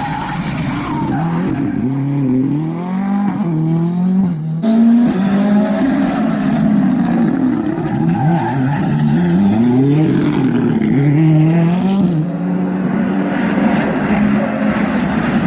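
Ford Fiesta R5 rally car's turbocharged four-cylinder engine revving hard on a stage, its pitch climbing and dropping again and again through the gear changes, with tyre squeal.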